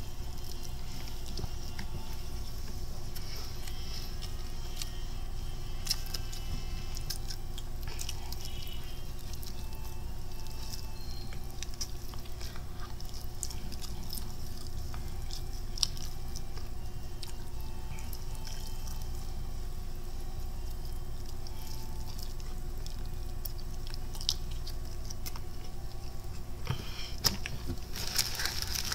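A person chewing and biting into Popeyes spicy fried chicken, with scattered small wet clicks and crunches over a steady low hum. Near the end comes a short rustle, like the paper or box being handled.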